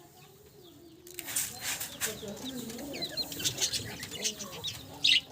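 A flock of budgerigars chirping and chattering, with many short, quick chirps; the chatter picks up about a second in, and there is a loud sharp sound near the end.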